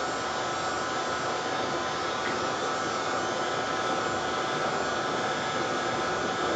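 Hair dryer running steadily, a rush of air with a steady whine over it, blowing wet paint across a canvas in a Dutch pour.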